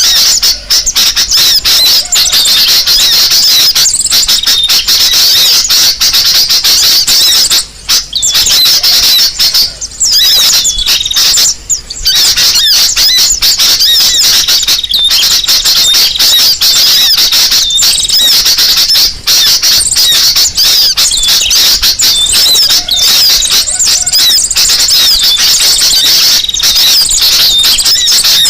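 Bird-lure recording of sunbird calls (kolibri sogo ontong) combined with sooty-headed bulbul (kutilang) calls. It is a rapid, loud, unbroken stream of high chirps and twitters, with brief breaks around a third of the way in.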